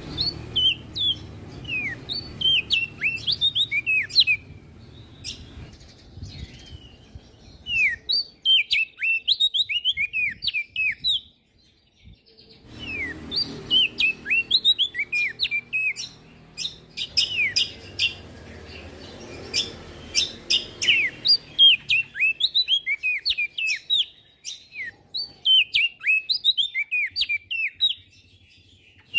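A prenjak daun songbird singing energetic phrases of quick, high, sharp chirps and down-slurred notes. The phrases come in bursts of a few seconds with short pauses between them.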